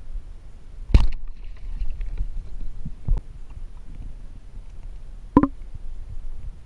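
A steady low, muffled rumble broken by three sharp knocks: a loud one about a second in, a smaller one about three seconds in, and one near the end that rings briefly.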